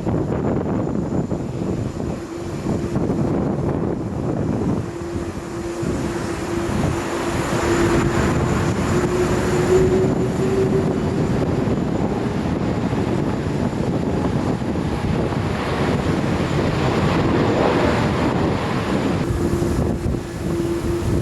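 Jet airliner's engines running as it passes: a steady loud noise with a humming tone that rises slightly about ten seconds in, fades, and comes back near the end.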